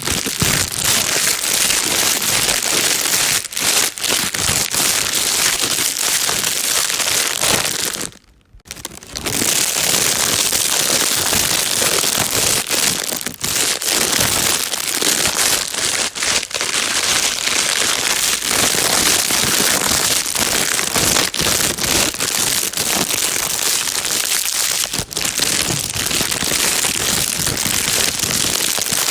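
Plastic bag being crinkled and rustled continuously, a dense crackling with sharp clicks, used as calming white noise for a baby. It stops for about half a second around eight seconds in, then carries on.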